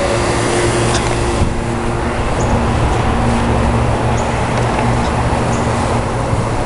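Heavy rain and strong wind of a severe thunderstorm: a loud, steady rushing noise with a deep rumble underneath.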